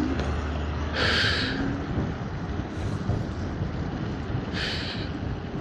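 Steady wind rush and road rumble while riding an electric scooter, with two short sharp breaths, about a second in and again near the end.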